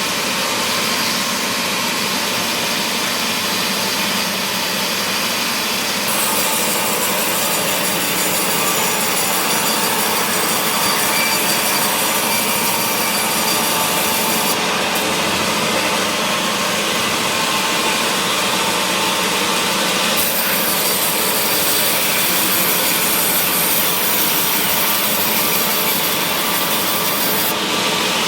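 Power saw cutting mahogany wood: a steady, loud sawing noise that runs without a break. Its hiss changes character several times along the cut.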